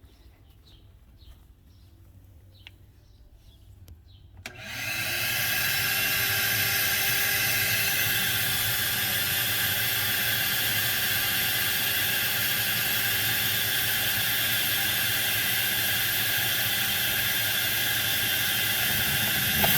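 Vacuum cleaner switched on about four and a half seconds in, its motor spinning up quickly to a loud, steady whine and rush of air that holds on evenly. It is pulling a vacuum on a Detroit truck engine's oil fill so a sensor can be changed without draining the oil. Faint bird chirps are heard before it starts.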